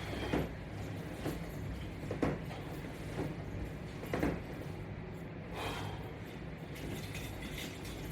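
Creaks and rustles about once a second from a run of sit-ups done against resistance straps anchored to a Latchbar, over a steady low hum.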